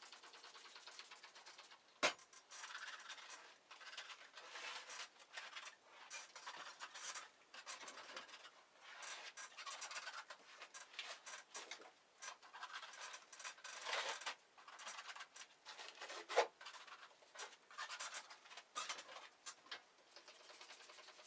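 Irregular scratching and scraping that comes and goes, with two sharp knocks, one about two seconds in and a louder one near sixteen seconds.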